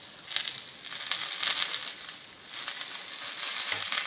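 Semolina-topped bread slices frying in oil in a nonstick pan, sizzling and crackling. The sizzle swells louder about half a second in and again past the halfway mark as a spatula slides under a slice.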